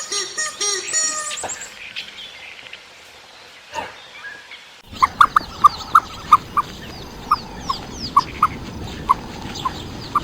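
Animal calls: a quick run of pitched cries at first, then, after a sudden change of scene about halfway, loud short chirps roughly twice a second with fainter high, falling bird chirps behind them.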